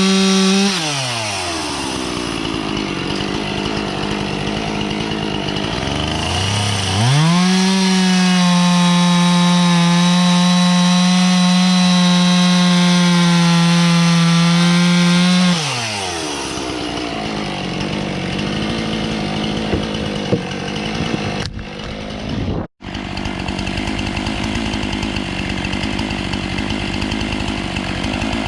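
Husqvarna professional two-stroke chainsaw held at high revs, dropping back about a second in, climbing again about seven seconds in and held steady for about eight seconds, then easing off to a lower running. The sound cuts out for an instant about three-quarters of the way through.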